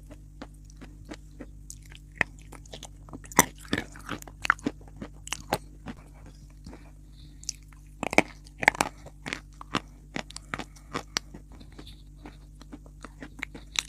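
A person biting and chewing crunchy eating chalk close to the microphone: irregular sharp crunches, in two busier spells, over a steady low hum.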